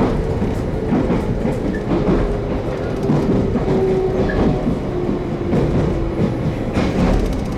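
JR Kyushu 813 series electric train heard from inside the car, running with a steady rumble, wheels clacking over rail joints and a motor whine that sinks slightly in pitch as the train slows toward a station.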